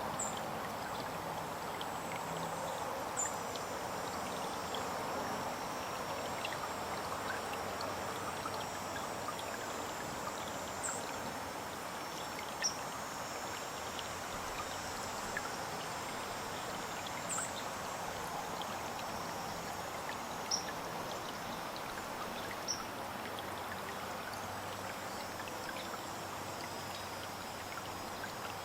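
Small songbirds giving short, high chip notes every few seconds over a steady rushing, trickling background like running water.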